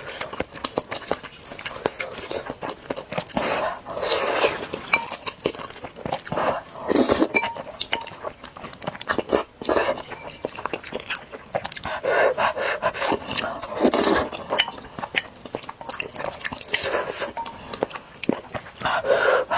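Close-miked eating of spicy noodle soup: noodles slurped in several loud, noisy bursts about every two to three seconds. Between the slurps come small clicks of utensils and chewing, and hissing, panting breaths drawn against the chilli heat.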